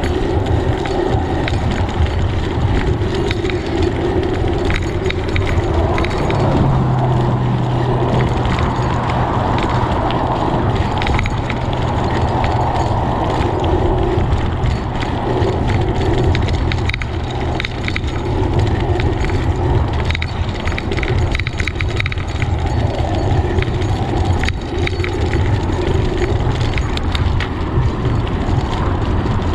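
Wind buffeting the microphone and bicycle tyres rumbling over a bumpy road, with frequent small rattling knocks from the bike and camera mount. A low steady hum sounds from about six seconds in until about two-thirds of the way through.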